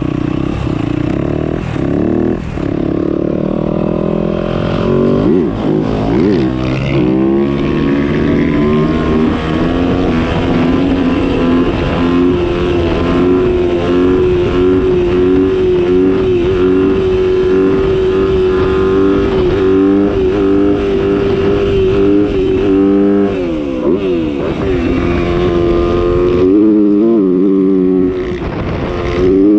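Motocross bike engine under way, held at steady high revs for long stretches, with its pitch sweeping up and down a few seconds in and again near the end as the throttle and gears change.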